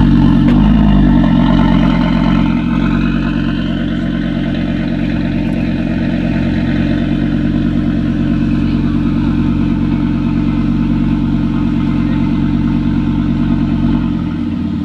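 Audi RS3 8V's turbocharged five-cylinder engine running at a steady speed through a Milltek straight-pipe exhaust, loudest in the first two seconds, then holding an even note until it drops off a little near the end.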